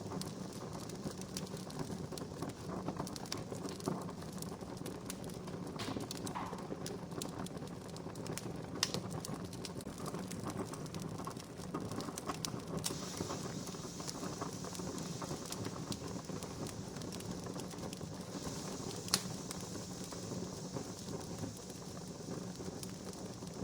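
Wood campfire crackling steadily, with scattered sharp pops. The loudest pops come at about a third of the way in and again near the end. A brighter hiss sets in for several seconds in the second half.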